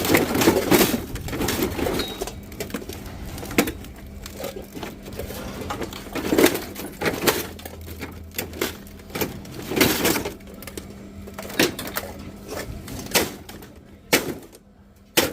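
Scrap metal pieces clattering and knocking as they are handled and dropped, a run of irregular knocks and rattles.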